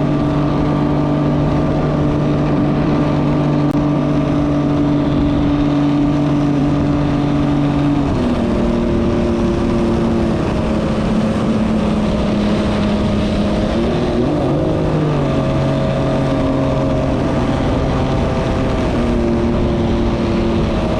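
Jet ski engine running under way, with rushing water and wind. The engine note steps down in pitch about a third of the way in, wavers, then shifts again as the throttle changes.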